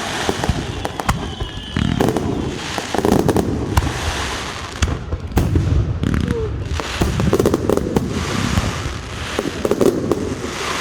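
Fireworks display going off: a dense run of bangs and crackling bursts, with heavier booms every few seconds.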